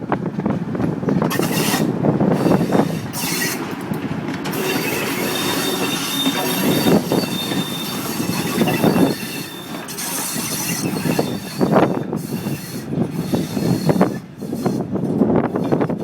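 Restored railcars running past on the rails, a steady rumble of wheels and running gear, with a thin, high wheel squeal through the middle stretch.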